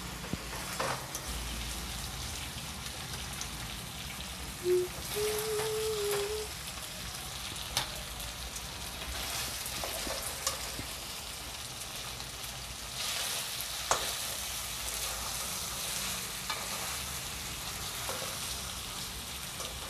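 Chicken and potato pieces sizzling as they fry in oil in a steel kadai, with a metal spoon now and then clicking and scraping against the pan as pieces are scooped out into a steel bowl. A short steady tone sounds about five seconds in.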